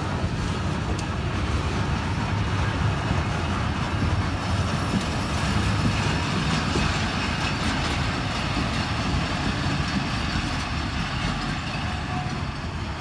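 Steel wheels of a coal train's hopper wagons rolling past close by on the rails, a steady rumble; it eases a little near the end as the brake van goes by.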